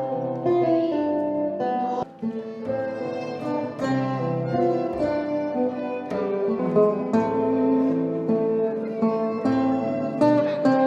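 Instrumental music for a medieval-style dance: plucked strings, with a bowed string joining in.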